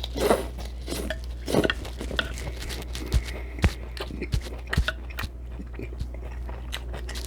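Close-miked chewing of Mexican shrimp cocktail, with many short sharp clicks and a few louder mouthfuls in the first two seconds, over a steady low hum.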